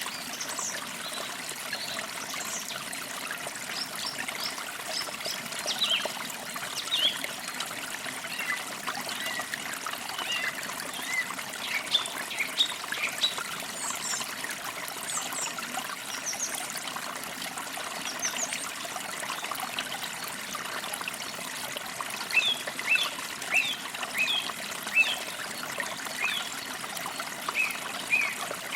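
Forest creek trickling steadily, with birds chirping in short, high calls throughout and a busier run of chirps about three-quarters of the way through.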